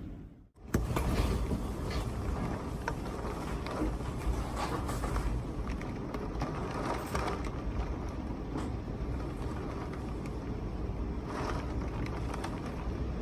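Strong wind gusting against the microphone with heavy wind-driven rain hissing, and scattered drops ticking against nearby surfaces. It starts abruptly after a half-second break.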